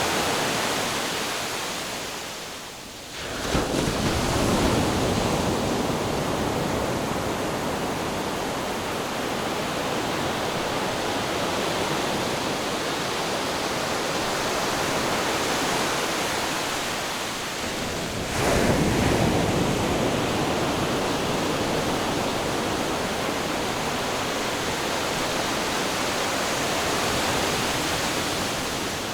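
Ocean waves washing onto the shore in a continuous rush of surf. The surge grows suddenly a little after three seconds in and again at about eighteen seconds.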